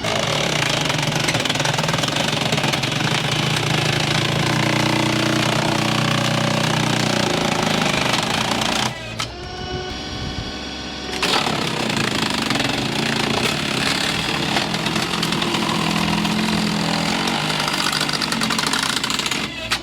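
A machine's engine running loudly and steadily, broken about halfway through by a couple of seconds of a different pitched sound.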